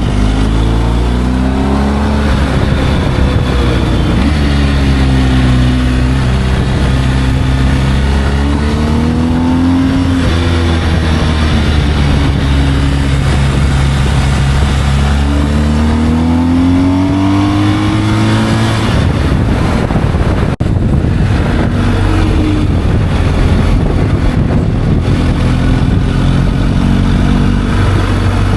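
Motorcycle engine under way with wind rush: the engine pitch climbs several times and drops back at each gear change, then settles into a steadier, lower cruise about two-thirds of the way in.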